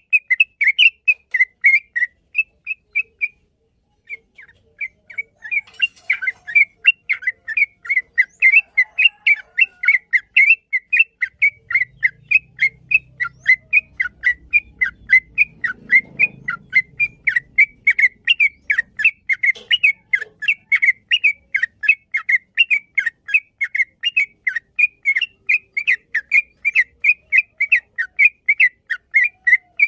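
Yellow-vented bulbul (trucukan) singing a long rapid run of short whistled chirps, several a second, with a brief break about three seconds in.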